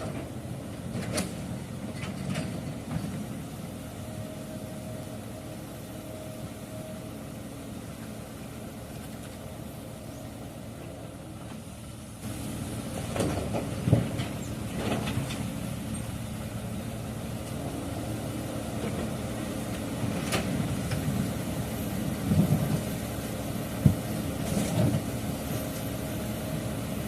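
Heavy construction machinery engine running steadily. It grows louder about halfway through, with a few sharp knocks.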